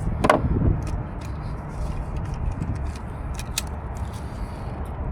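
A few small clicks and scrapes of hands working a wiring connector and its rubber seal, over a steady low rumble.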